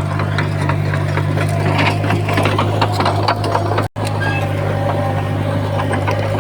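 Small crawler bulldozer's diesel engine running steadily, with many clanks and rattles over it. The sound drops out for an instant about four seconds in.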